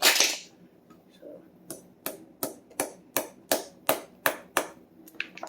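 One loud knock, then a steady run of about nine sharp taps, roughly three a second, with two lighter ones near the end: a wedge being tapped into the top of a hickory hammer handle to spread the wood and lock the head on.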